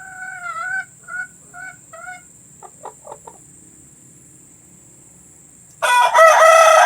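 A hen clucking: one drawn-out call followed by a quick series of short clucks, then a pause. Near the end a rooster breaks into a loud crow.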